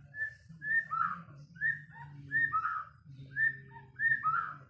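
White-rumped shama (murai batu) singing: a phrase of two clear whistled notes followed by a lower, fuller note, repeated three times.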